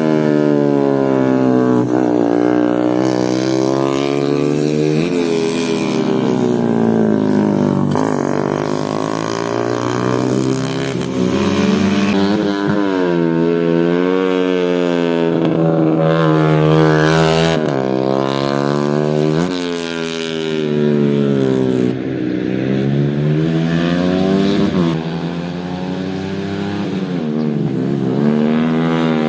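Motocross motorcycle engine under hard acceleration, its pitch climbing and then dropping sharply at each gear change, over and over.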